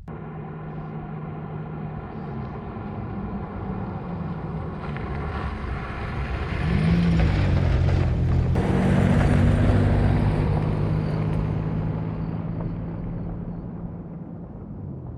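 An engine running, growing louder to a peak about two-thirds of the way through and then fading, its pitch shifting up and down as it goes.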